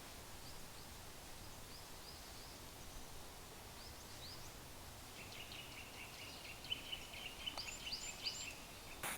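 Small birds calling in a forest: short, high, rising chirps every second or so over a faint steady hiss. From about halfway in, a quick chattering run of lower notes joins them.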